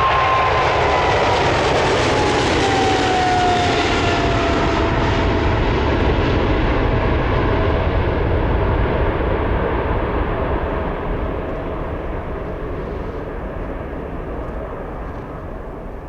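Jet airliner passing close by, its engine whine dropping in pitch as it goes past, then the engine noise fading slowly as it moves away.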